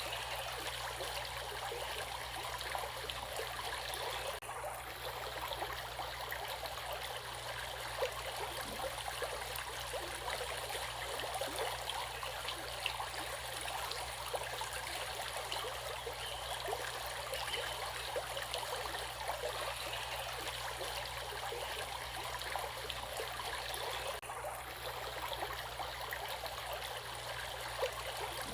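Water of a stream flowing steadily, a continuous rushing with fine trickling and splashing.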